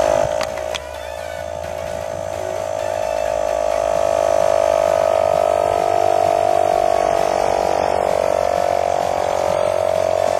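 Portable electric tyre inflator switched on with a click, its small piston compressor running with a steady buzzing drone as it pumps air into a water-filled plastic bottle rocket. The pitch dips slightly in the first second and the sound grows louder over the first few seconds, then holds.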